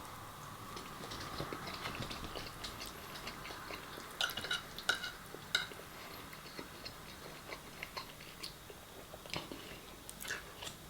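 A person chewing food close to the microphone, with scattered small clicks and taps, a cluster of them about four to five seconds in.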